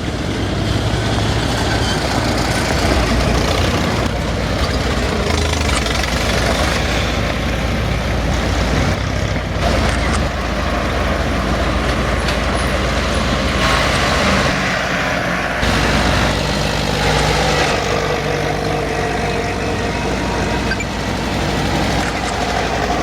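Engines of old farm tractors running loud and steady as they drive past one after another.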